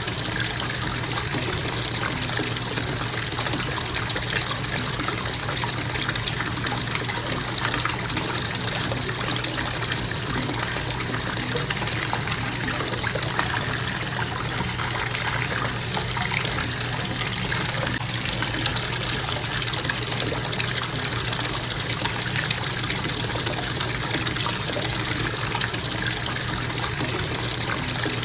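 Bathtub faucet running in a steady stream, filling the tub with a constant, even rush of water.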